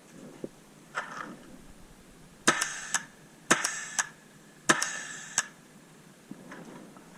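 A custom Automag paintball marker firing three shots about a second apart. Each shot is followed by a sharper, quieter click roughly half a second later. A fainter rustle comes about a second in.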